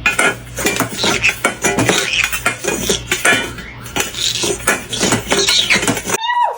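Rapid, irregular clattering and clinking of small hard objects, like cutlery or dishes knocking together. Near the end it stops and a short pitched call with a bending pitch begins, likely from the parrot.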